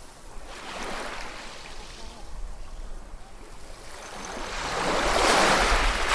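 Ocean waves breaking on a shore: a small wash about a second in, then a larger wave building up and breaking loudest near the end.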